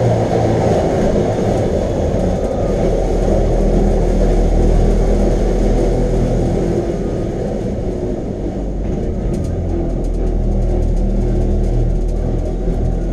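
Electric rack train of the Wengernalp railway running along the track, a steady low rumble. Faint light clicks join in from about nine seconds in.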